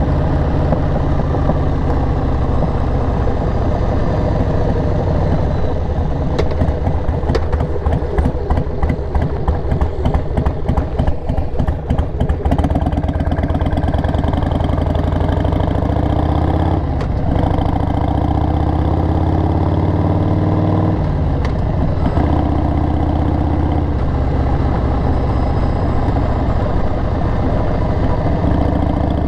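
Harley-Davidson XL883R Sportster's air-cooled 45-degree V-twin, breathing through Cobra 909 SpeedSterShort aftermarket slip-on mufflers, running at low revs with a loud, steady beat. From about six to twelve seconds in the firing pulses come loose and uneven, then the engine settles back to a steady note, with brief changes near seventeen and twenty-one seconds.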